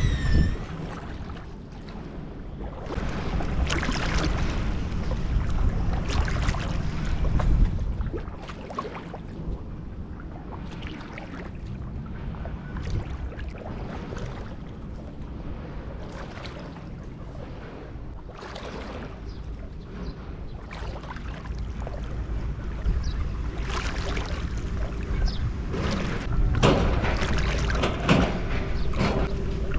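Paddle strokes splashing in the water beside a stand-up paddleboard, with wind buffeting the action camera's microphone. The splashing is louder for a few seconds near the start and again near the end.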